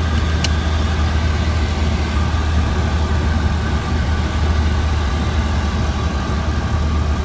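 Steady cockpit drone of an aircraft's engines and airflow on approach with gear down and full flaps, a strong low hum under a few steady higher tones. A single brief click about half a second in.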